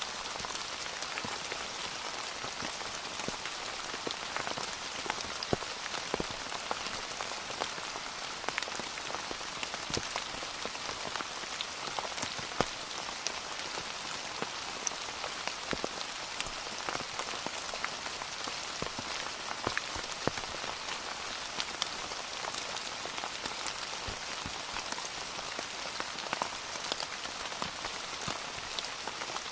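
Steady rain falling, a constant hiss dotted with many sharp individual drops striking a surface.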